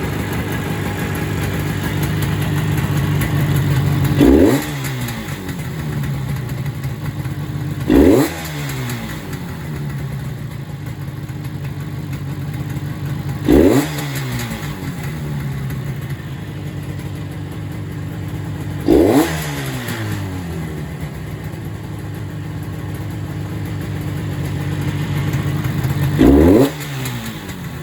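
Yamaha YDS-3's two-stroke parallel-twin engine idling steadily, blipped five times with quick throttle revs that rise and fall in pitch, about every five seconds.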